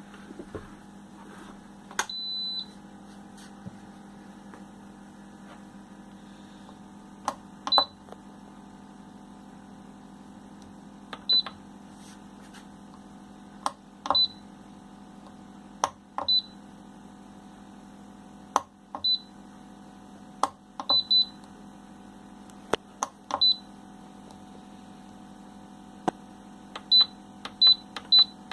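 Electronic beeps from a twin-head mug heat press's digital controller: one longer beep about two seconds in, then short beeps with clicks at irregular intervals, coming quickly near the end. A steady low hum runs underneath.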